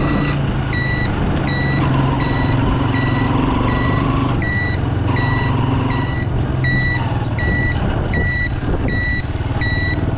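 A vehicle's electronic warning beeper, like a reversing alarm, beeping at an even pace of a bit more than once a second over a steadily idling engine.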